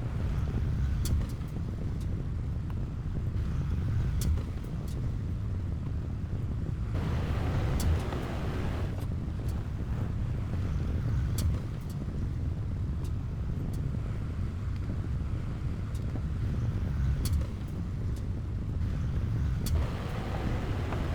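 Diesel engine of heavy earthmoving equipment running under load with a steady low rumble. It grows harsher twice, about seven seconds in and near the end, with a few sharp metallic clicks scattered through.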